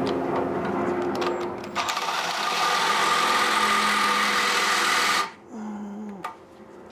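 Electric drill running as it drills a hole, with a change in its tone a little under two seconds in. It stops about five seconds in and the motor winds down with a falling pitch. The bit is a new one that, to the driller, is already blunt.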